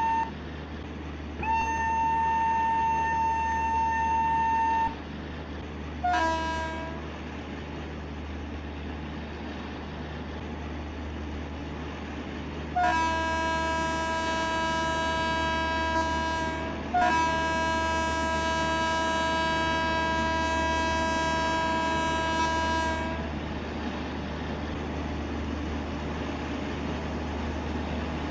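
Train horn blowing several times over a steady low rumble: a held note of about three seconds, a short blast, then two long lower blasts back to back.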